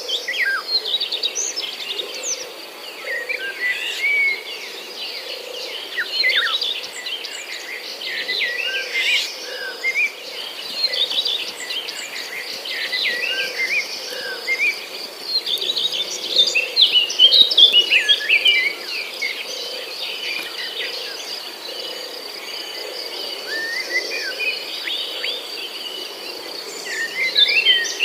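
Many small birds chirping and calling, short overlapping chirps and trills throughout, busiest just past the middle and near the end, over soft regular footsteps.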